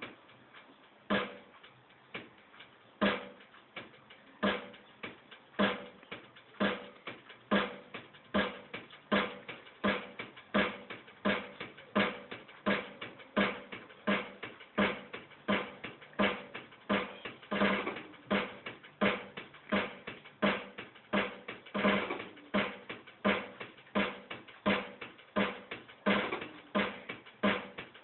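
Hand-played percussion beat, an irregular rhythm of sharp strikes. It starts slow, with single hits well over a second apart, then settles into roughly two strokes a second with lighter beats between them. Muffled by a low-quality phone microphone.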